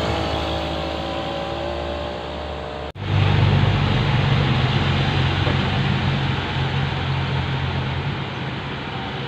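Dump truck engine running, its pitch falling as it slows. A sudden break about three seconds in is followed by a louder, steady low engine drone.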